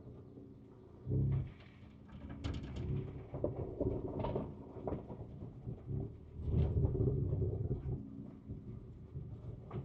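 Cabin sound of a 2024 Ford Ranger Raptor's twin-turbo V6 pulling slowly over rough trail: a low engine hum that swells briefly about a second in and again around seven seconds, with scattered knocks and rattles from the cab and suspension.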